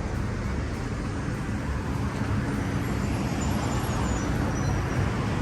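Steady road traffic noise, a continuous low rumble of cars on the street.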